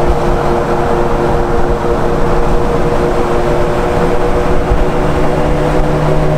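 Steady drone of a car on the move, road and engine noise with a steady hum running under it.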